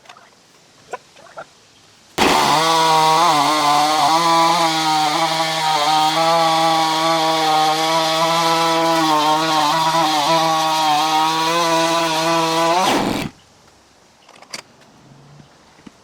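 Stihl MS660 two-stroke chainsaw on a chainsaw mill, running at high revs while ripping a slab from a log, its pitch wavering slightly under the cutting load. The sound starts abruptly about two seconds in and cuts off abruptly about eleven seconds later.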